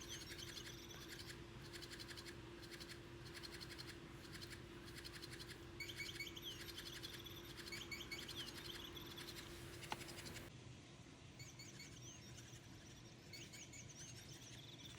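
Electronic bird toy chirping in short bursts of quick high chirps, several times over, with a faint scratching and rustling as the cat paws at the toy.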